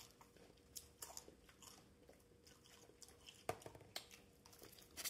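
A person biting and chewing a slice of veggie pizza close to the microphone: faint, irregular crunchy clicks of the crust, with one sharper crunch about three and a half seconds in.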